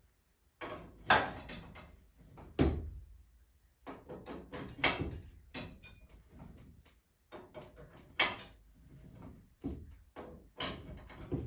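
A run of irregular knocks and clanks from work on a garage door and its torsion spring hardware, with several sharp loud strikes among lighter taps.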